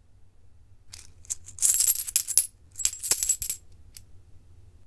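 Metal coins clinking and jingling in two short bursts, a second or so apart, as payment is handed over.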